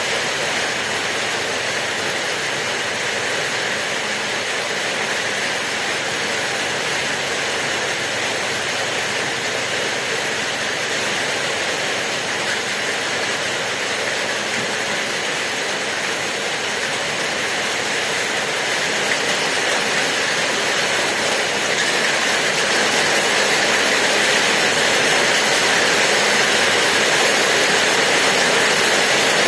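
Steady heavy rain, an even hiss of falling drops that grows a little louder about two-thirds of the way through.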